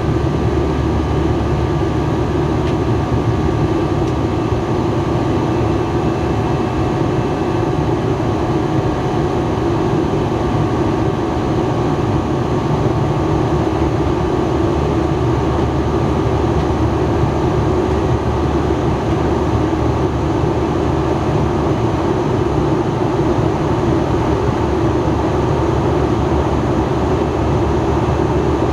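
Steady cabin noise inside an Airbus A321 in flight: the jet engines and rushing air make an even, unbroken drone, with a faint steady whine above it.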